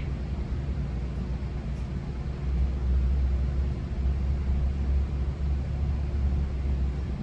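Low, steady rumble of a GO Transit commuter train heard from inside a bilevel passenger coach, growing a little louder about two and a half seconds in.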